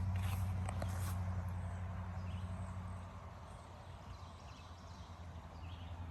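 A low, steady hum, like an engine running, with a few light clicks like footsteps, fading away over the first three seconds to a faint outdoor background.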